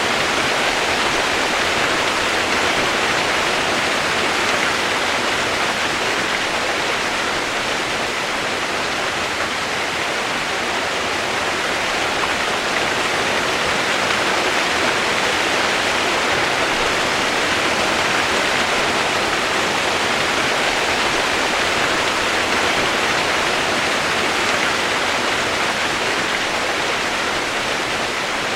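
Steady rain noise, an even hiss with no separate drops or changes, used as white noise.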